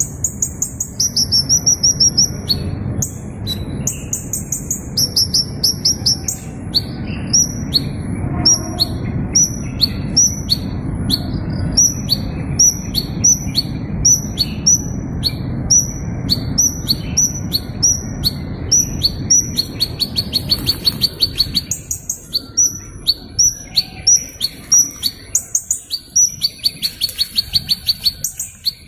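A small bird calling: a steady run of short, high, down-slurred chirps, a little more than one a second, broken twice by a fast buzzy trill, about two-thirds through and near the end.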